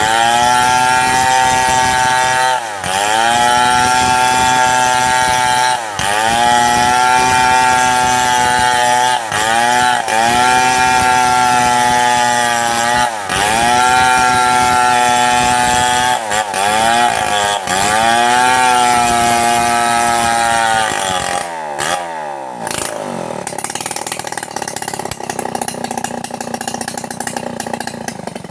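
Two-stroke chainsaw at full throttle ripping through mahogany, its revs dipping briefly and picking up again every few seconds. About 21 s in the revs fall away and the saw settles to a rough idle.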